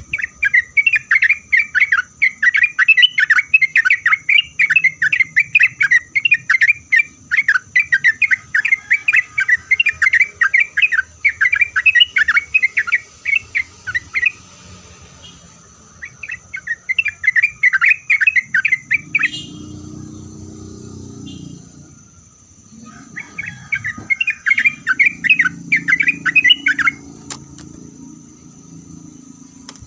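Yellow-vented bulbul (trucukan) singing its fast, bubbling chatter of short notes in long runs, one lasting about fourteen seconds, then two shorter bouts after brief pauses. A faint low rumble sits under the later bouts.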